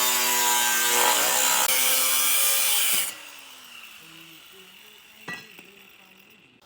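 A power tool cutting or grinding, with a steady whine over a rasping noise, stops suddenly about three seconds in. A single sharp click follows a couple of seconds later.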